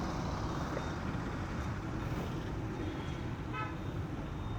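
Steady background road-traffic noise, with a short vehicle horn toot about three and a half seconds in.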